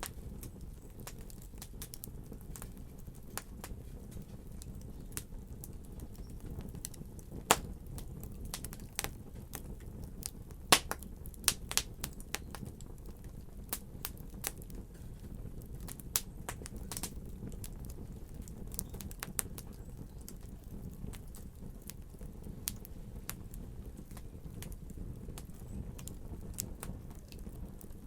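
Wood fire crackling over a steady low roar, with irregular sharp pops that come thickest in the middle stretch; two pops, one early and one near the middle, stand out loudest.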